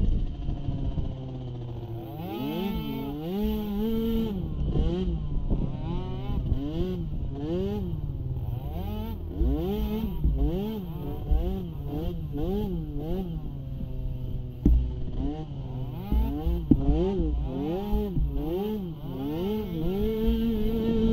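Small pee-wee ATV engine revving up and falling back over and over, about once a second, as the throttle is worked through the course, with low rumbling, wind buffeting and a few knocks from the ride.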